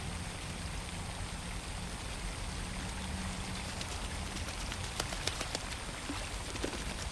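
Pond-side water ambience: a steady soft wash of water noise, with a few small sharp water clicks about five seconds in and one more shortly after.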